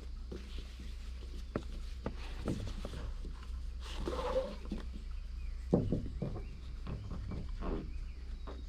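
Nylon cam-lock tie-down strap being handled on a canoe and roof rack: webbing and buckle scraping and knocking in short irregular bursts, with a sharper knock about six seconds in.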